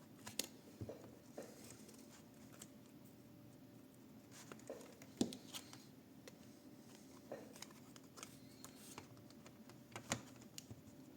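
Faint, scattered clicks and taps of a thin plastic card being worked into the seam of a laptop's plastic bottom cover to pry its clips loose.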